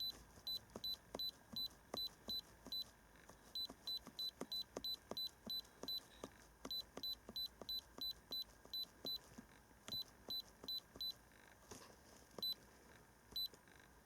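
Keypad of an iCarsoft i930 handheld diagnostic scan tool beeping at each button press as its menu is scrolled: runs of short high beeps, about three or four a second, each with a faint click, broken by short pauses. Near the end there are only a few single beeps.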